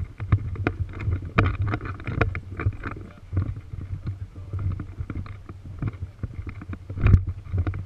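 Low rumbling on the microphone with many irregular knocks and rustles, typical of wind and handling noise while walking with the camera; a louder knock about seven seconds in.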